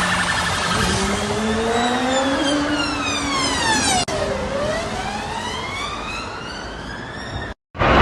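Emergency vehicle siren wailing, its pitch rising and falling slowly, over road traffic noise, with a brief break about four seconds in and another just before the end.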